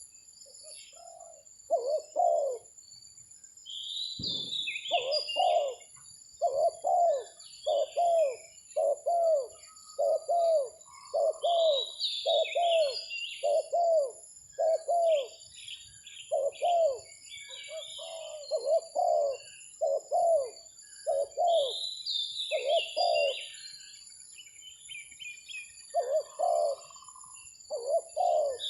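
Spotted doves cooing: runs of low, falling coo notes, about one a second, with short breaks. Smaller birds chirp higher up, and a steady high-pitched insect-like drone runs throughout. There is a single dull thump about four seconds in.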